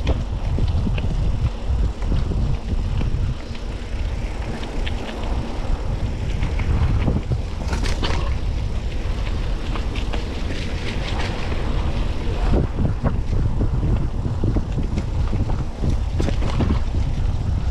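Mountain bike descending a rough forest road: wind rushing over the microphone, with the tyres rumbling over the surface and the bike rattling and clicking over bumps.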